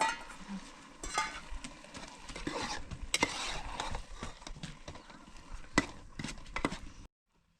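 Spoon clinking and scraping in a dish while food is stirred, giving irregular short knocks and clicks. It cuts off abruptly near the end.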